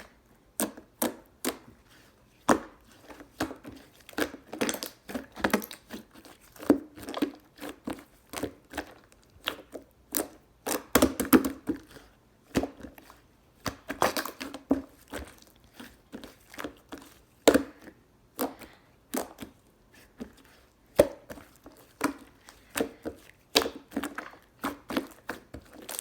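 Hands squishing, poking and stretching a soft pudding-textured slime: irregular sticky clicks, pops and crackles, sometimes several in quick succession.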